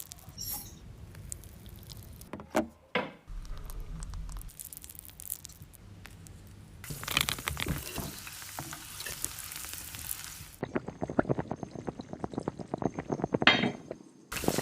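Kitchen food-preparation sounds in several short cut-together shots. Scattered clicks and knocks come first, then a steady hiss in the middle, and then a run of rapid small clicks near the end.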